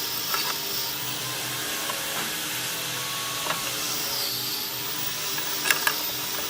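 Steady hissing noise over a low, pulsing machine hum, with a few light clicks near the end.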